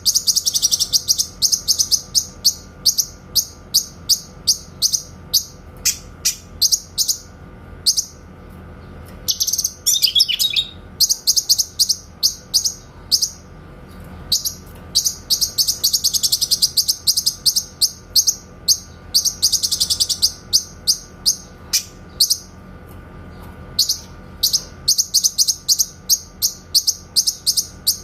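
Cucak kinoy singing its rapid 'tembakan' (shooting) song: sharp, high-pitched notes fired off in quick series, breaking several times into fast, dense trills.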